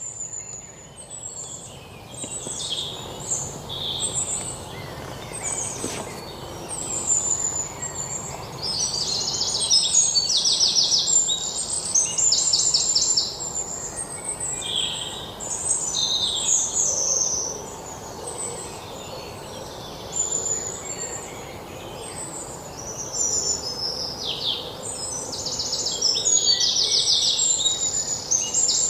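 Birdsong: several birds calling and singing, high-pitched, including fast repeated trills, over a steady low background noise.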